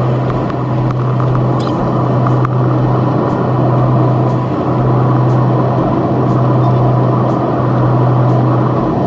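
Airplane cabin noise in flight: a loud, steady low drone from the engines with the rush of air around it, unchanging throughout.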